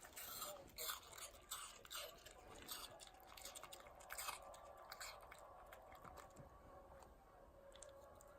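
A dog chewing and crunching pieces of apple: irregular wet crunches, closely spaced in the first few seconds and thinning out toward the end.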